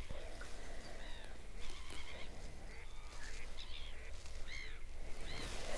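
Birds calling: a string of short, arched calls, one every half second to a second, over a faint low rumble.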